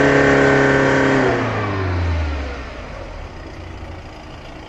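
Diesel vehicle engine snapped from idle to full governed speed, held there about a second and a half, then released so the revs fall back to idle. This is a free-acceleration run for a diesel black-smoke emissions test.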